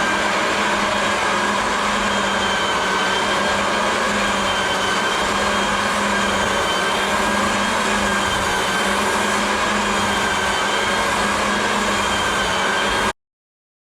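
Floor edger sanding an old fir floor: a steady, loud motor-and-abrasive whir with a constant whine, cutting off suddenly near the end.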